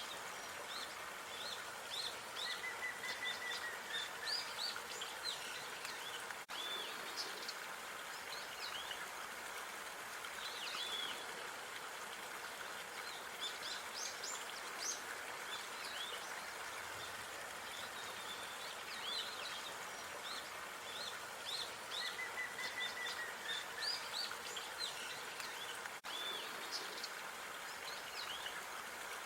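Outdoor park ambience: small birds chirping and twittering in quick high calls over a steady background hiss, with a short held whistle twice. The stretch repeats about every 20 seconds as a loop.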